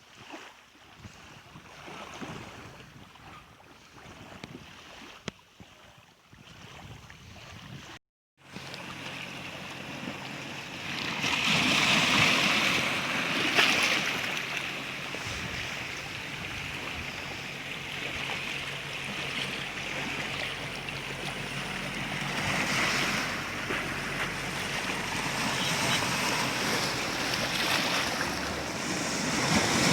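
Rushing noise of waves and wind, with wind buffeting the microphone. It is quieter at first; after a brief dropout about eight seconds in, it is louder, with a faint steady low hum underneath.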